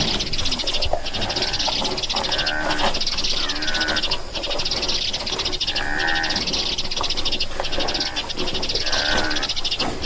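Outdoor wildlife ambience: a steady, fast-pulsing high trill, with about four short arching animal calls spread through it.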